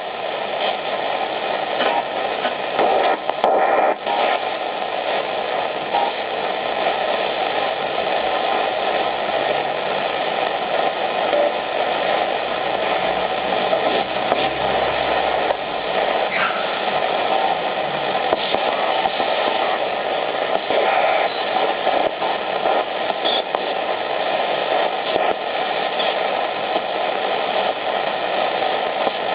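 Shortwave radio receiver's loudspeaker giving out steady loud static and hiss, with faint steady whistles under the noise: band noise with no station audible.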